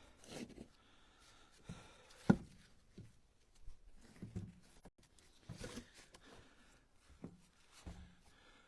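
Split ash firewood pieces clunking and knocking against each other as they are stacked by hand into a pickup truck bed, a scattering of separate knocks with the sharpest about two seconds in.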